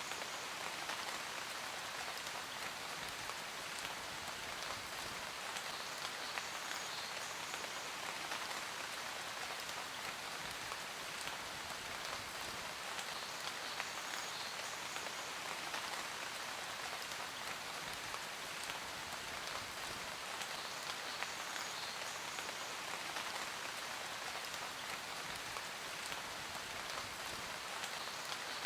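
Steady rain falling: an even, unbroken patter of many drops.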